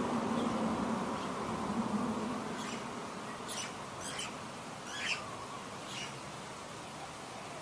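About six short, high bird chirps spread over three seconds, over a steady background hiss. A low hum fades out in the first two seconds.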